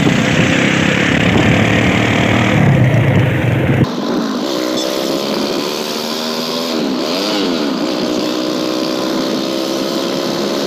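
Kawasaki motorcycle with a shortened exhaust, being ridden. First there is a rushing noise of wind and engine, then after a cut the engine runs steadily and its pitch rises and falls once as it is revved, a few seconds in.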